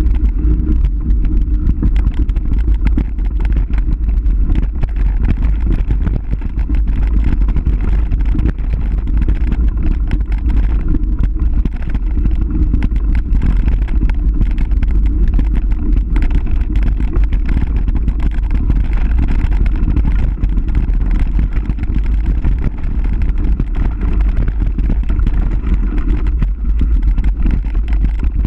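Heavy wind rumble on the microphone with constant rattling and clatter, as of a bike descending a rough downhill trail.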